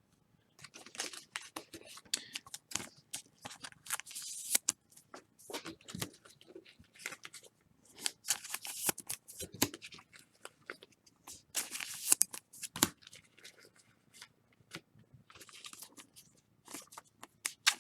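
Trading cards and their cardboard and foil packaging being handled at close range: irregular rustling, sliding and clicking, busiest around 2 to 5 seconds, 8 to 10 seconds, 12 seconds and 15 to 17 seconds in.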